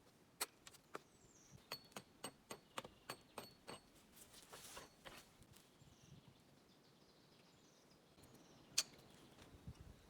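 A quick run of about a dozen faint, sharp knocks in the first few seconds, a brief rustle, then one louder knock near the end.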